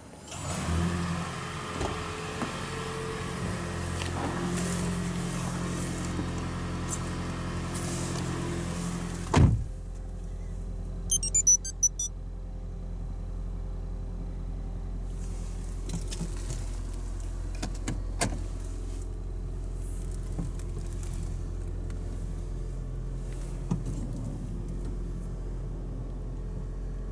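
A Toyota Prius's petrol engine starts by remote starter and runs steadily. About nine seconds in there is a single loud knock, followed by a quick run of short high beeps, and then the car keeps running at a steady idle.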